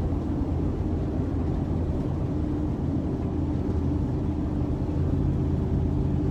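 Steady low drone of a vehicle's engine and tyres heard from inside the cab, cruising at about 55 mph on a snow-covered highway while pulling a trailer.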